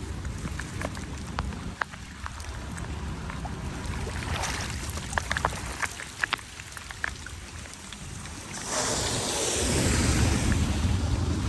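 Floodwater running at a street drain, with scattered sharp clicks and knocks of debris being handled between about four and seven seconds in. Near the end a much louder rushing sets in.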